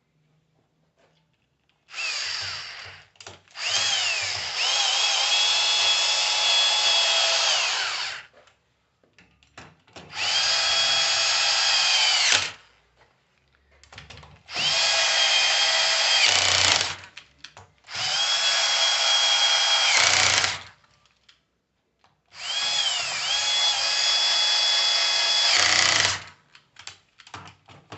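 Electric drill-driver running in about five bursts of two to five seconds. Each burst spins up with a rising whine, holds steady and winds down. It is driving screws home while an alternator is reassembled.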